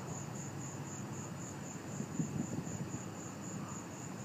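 Night insects chirping in a steady high pulse, about four pulses a second, over a low rumble of distant background noise.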